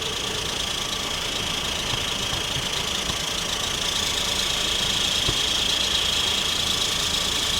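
Road vehicle engine idling steadily, with a steady high hiss that grows slightly louder toward the end.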